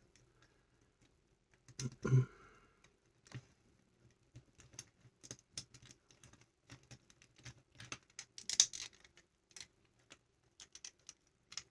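Small plastic LEGO bricks clicking and tapping as they are handled and pressed onto the model: a run of light, irregular clicks.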